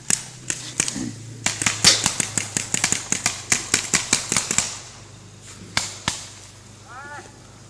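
Paintball markers firing: a few scattered pops, then a rapid string of shots, several a second, for about three seconds, then a few last shots. A low steady hum runs underneath.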